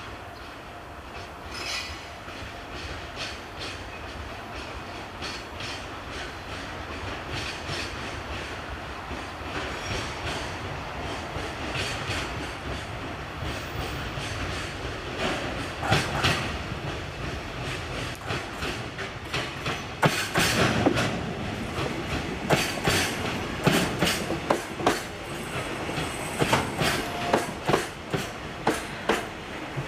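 Freight train wagons rolling slowly over rail joints and points, their wheels clicking and clanking with some wheel squeal. The clacks grow louder and come more often from about halfway through.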